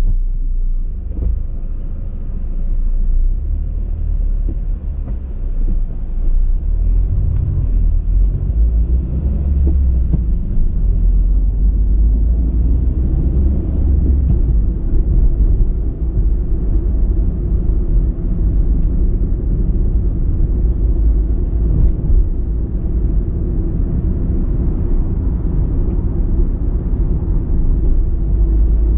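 A car driving on the road: a steady low rumble of engine and tyre noise that grows louder over the first several seconds, then holds.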